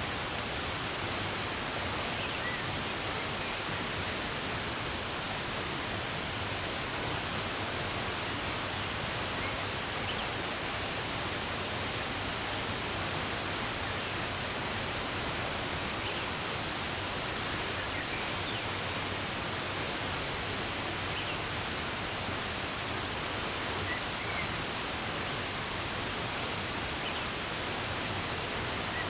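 Steady rushing of running water, an even wash of noise, with a few faint, brief bird chirps here and there.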